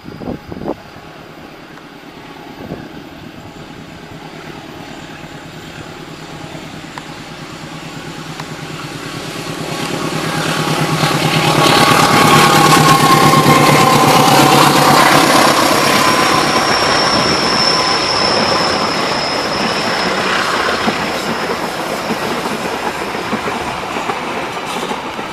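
A diesel-locomotive-hauled passenger train approaching and running past: the sound swells to a peak about halfway through, with a low engine hum and a pitch that falls as it goes by. The carriages then roll past with a steady rail noise and a thin high squeal from the wheels for several seconds.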